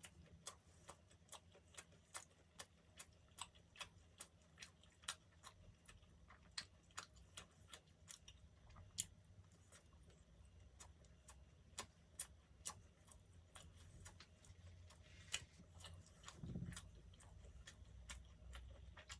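Faint, quick mouth clicks of someone chewing soft, sticky dessert, about two to three a second, with a soft low thud near the end.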